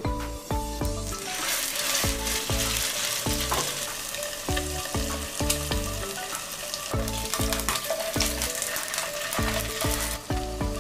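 Salmon steak sizzling in hot oil in a nonstick frying pan, the sizzle starting about a second in as the fish goes into the pan. Background music with a steady beat plays underneath.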